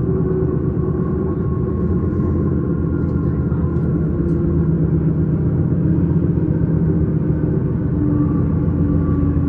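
S-Bahn electric train running along the line: steady rumble of wheels on rail with a drone of motor hum tones that drift slightly up and down in pitch.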